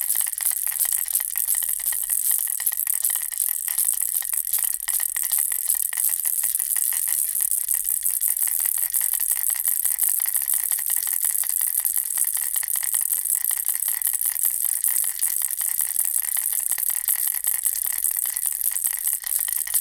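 Baby rattle shaped as a bear inside a ball, shaken briskly and without pause, giving a steady, dense stream of high-pitched clicking and rattling.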